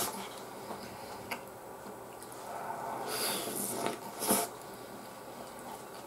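Close-up mouth sounds of a person eating soft white bread and instant noodles: chewing and smacking. There is a longer noisy stretch around three seconds in and a sharp smack just after four seconds.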